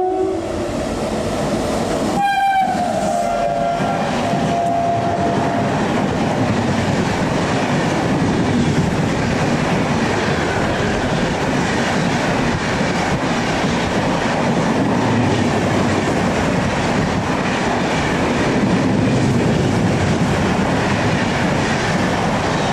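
WAP-7 electric locomotive sounding its horn as it runs through at speed: one blast ends just after the start, and a second, from about two seconds to six, drops in pitch as the locomotive passes. Under and after it, the steady rush and clatter of the LHB coaches' wheels going by at high speed.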